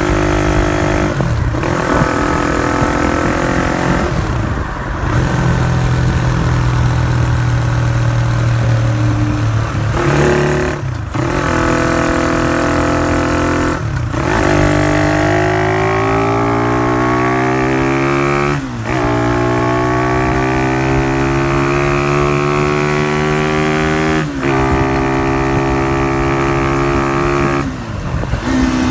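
Honda CY50/CY80 small single-cylinder four-stroke motorcycle engine running through an aftermarket exhaust, under way: the note holds steady for stretches, climbs in pitch under acceleration about halfway through, and breaks off briefly several times where the throttle is shut.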